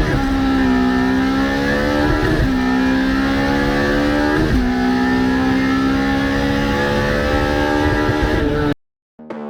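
Car engine accelerating hard through the gears, its pitch dropping at three upshifts about two seconds apart and climbing again between them. The engine sound cuts off suddenly near the end, and music starts just after.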